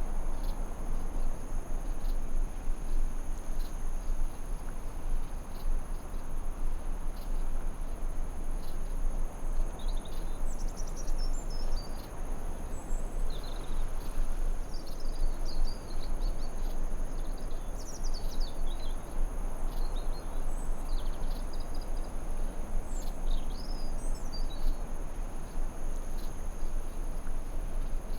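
Forest ambience: crickets trilling steadily on two high pitches over a constant hiss, with small birds chirping in short falling notes through the middle stretch.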